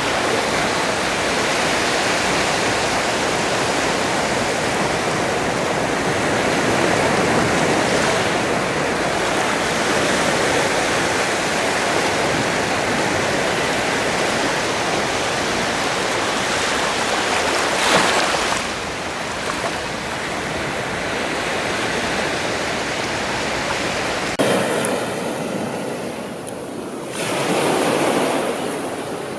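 Sea waves washing onto a shore: a continuous rush of surf that swells and eases, with a brief louder splash about 18 seconds in. About 24 seconds in, the sound changes abruptly and loses its low rumble, then another wave swells near the end.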